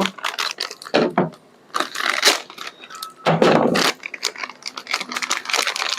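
Wrapping of a new refrigerator rotary switch being opened by hand: irregular crinkling and tearing bursts with small clicks, the loudest a little past the middle.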